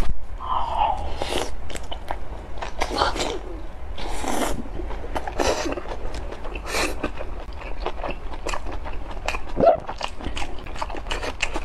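Close-miked biting and chewing of a soft glutinous-rice sausage: many wet mouth clicks and smacks, with a few short hissy mouth noises between them.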